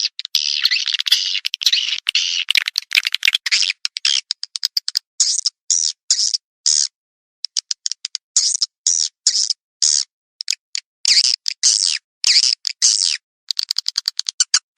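Swiftlet lure call: a rapid string of high, buzzy twittering chirps and dry clicks in short bursts, each cut off by sudden silence, the kind played to draw swiftlets to a nesting house.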